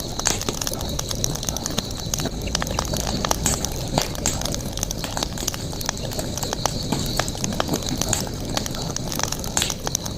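Campfire burning, with irregular sharp crackles and pops from the wood over a steady background hiss.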